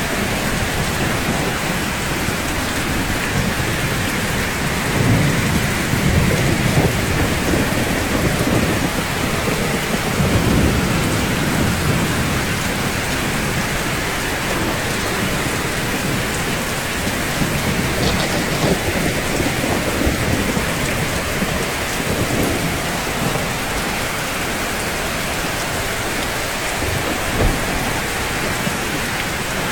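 Steady rain falling on rooftops: an even hiss, with low rumbles swelling up about five and ten seconds in.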